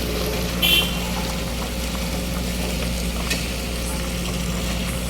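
Steady hiss of heavy rain over a low, steady engine hum, with a brief high squeal less than a second in.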